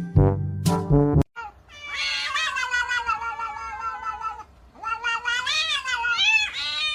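Domestic cat meowing in two long drawn-out calls, the second wavering up and down. Music plays for about the first second, then cuts off.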